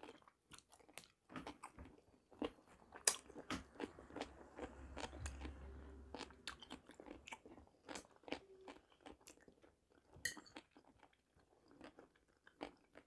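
Close-miked chewing with small crunches and wet mouth clicks, irregular throughout: a person chewing a pickled cucumber.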